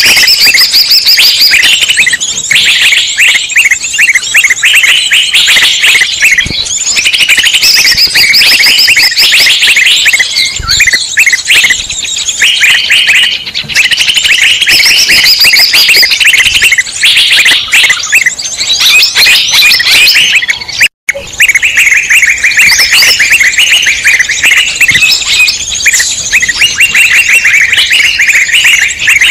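A dense, loud chorus of many small songbirds chattering and trilling at once, agitated calls of the kind used as a lure recording to draw wild birds. The sound cuts out completely for a moment about two-thirds of the way through, then resumes.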